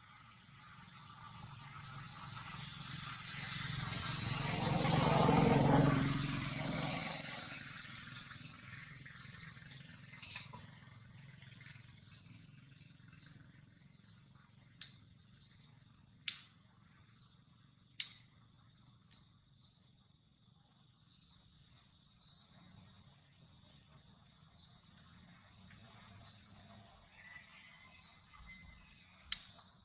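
Steady high-pitched insect drone with short falling chirps repeating under it. A louder rushing sound swells and fades about five seconds in, and a few sharp clicks come later.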